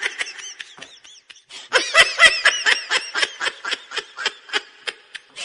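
Laughter sound effect: a high-pitched laugh in quick rhythmic pulses, starting about a second and a half in after a short lull and trailing off near the end.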